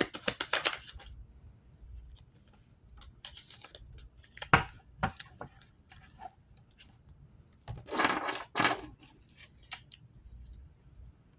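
Tarot cards being handled: a run of quick riffling clicks that dies away in the first second, then scattered sharp snaps and slaps as cards are shuffled and laid down, loudest about four and a half seconds in and in a short flurry around eight seconds.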